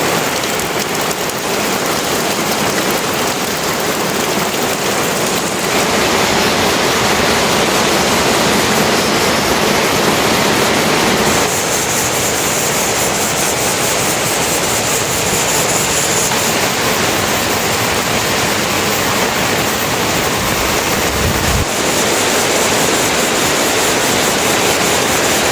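Steady heavy rain with rushing water, an even hiss that shifts abruptly in tone a few times.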